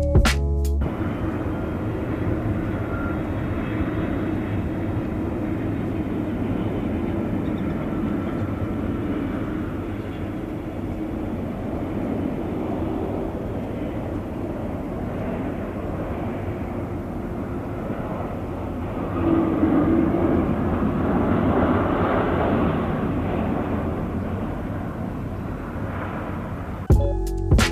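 Airplane engines running with a steady noisy drone that swells louder about two-thirds of the way through, then eases off.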